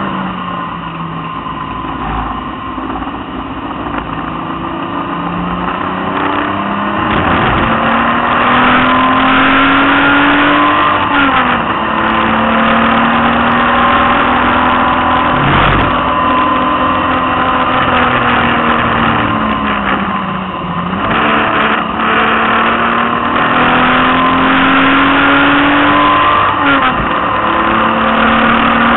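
BMW E30's engine heard from inside the cabin, pulling hard on a wet track lap. Its pitch climbs steadily under throttle and falls back sharply three times, about eleven, twenty and twenty-seven seconds in.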